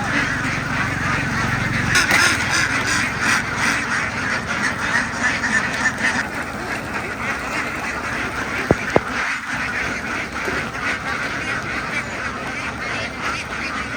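A large flock of domestic ducks quacking together in a dense, continuous chorus. Two sharp knocks come close together about nine seconds in.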